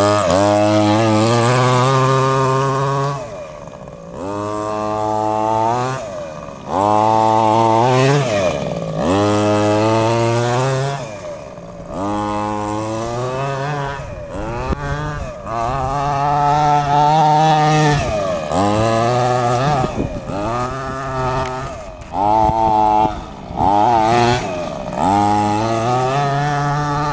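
The 23cc two-stroke gas engine of a ShengQi 1/5-scale RC monster truck revving in repeated throttle bursts, its pitch rising with each burst and falling back toward idle between them, about ten times in all.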